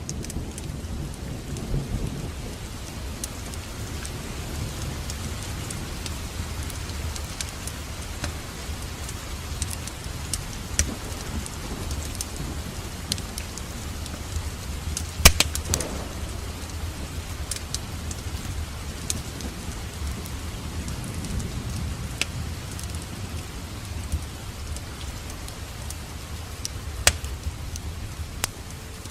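Wood fire in a fireplace crackling, with a steady low rumble from the flames and scattered sharp pops. One louder pop comes about halfway through and another near the end.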